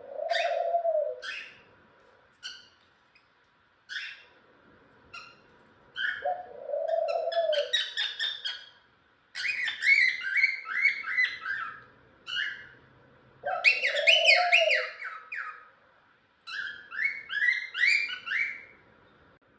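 Pet cockatiels chirping and whistling in bursts of quick, falling notes. A low hooting note, about a second long, comes three times: at the start, about six seconds in and near the middle, each followed by a run of chirps.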